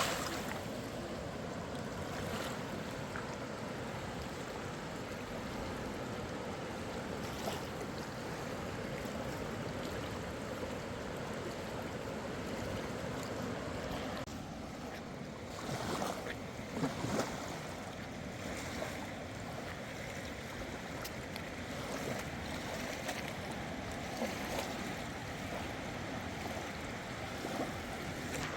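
Steady rush of a fast-flowing river. A few short louder knocks come a little after halfway.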